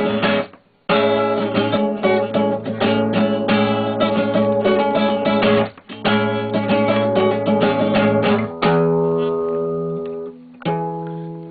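A band's guitars strumming chords over a bass line to end a song, with short breaks about half a second in and near the middle, finishing on two held chords left to ring and fade.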